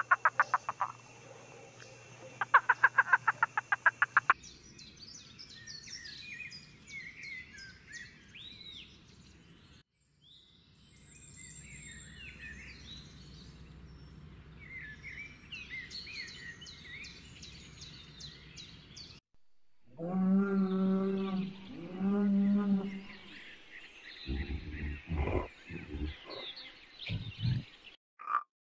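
A string of different animal calls. A rapid pulsed trill typical of a frog comes first, for about four seconds, then a long stretch of bird chirps and twitters. Two long, low pitched calls follow, about a second and a half each, and a few short low grunts come near the end.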